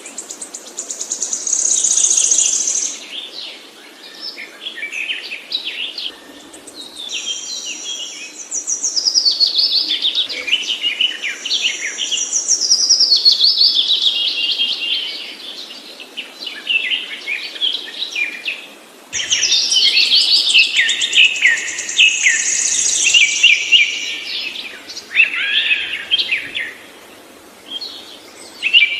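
Songbird singing in long, rapid, varied phrases of trills and chirps, several seconds each with short pauses between.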